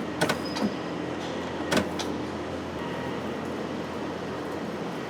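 Steady hum of sheet-metal bending machinery in a workshop, with a few sharp clicks and knocks of steel being handled. The loudest knock comes just under two seconds in.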